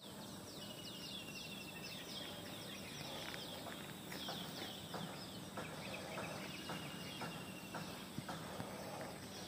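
Birds chirping: a dense run of short, quick falling chirps, with a few soft clicks scattered among them.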